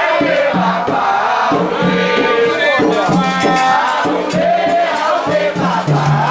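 A group singing a Candomblé ritual chant to a beat of percussion, with a shaker rattle sounding throughout.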